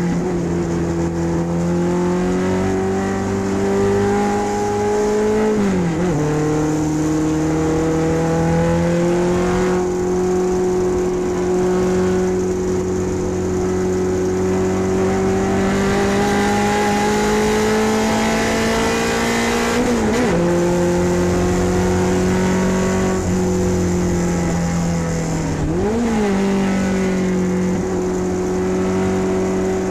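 Ford Pinto race car's engine heard from inside the car, running hard for a long stretch with its pitch creeping slowly upward. The pitch dips sharply three times: about six seconds in, around twenty seconds, and again near the end.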